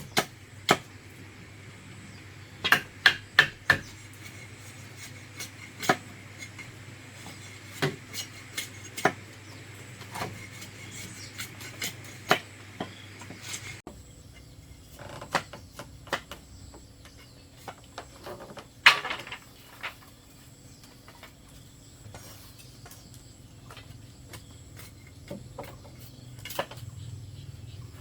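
Irregular sharp knocks and clinks from hand tools working bamboo, with a quick run of four hammer blows about three seconds in. The blows thin out to scattered taps after the middle.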